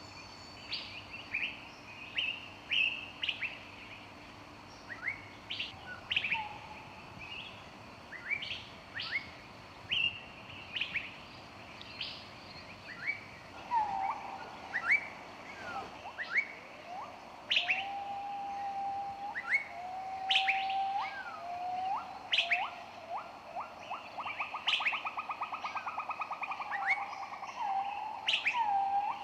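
Several songbirds chirping: short, sharp, high chirps repeat throughout, and from about halfway through a lower whistled song joins in, with a fast trill near the end.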